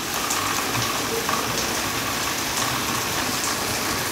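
Heavy downpour: rain falling steadily, an even hiss with scattered louder drop splashes.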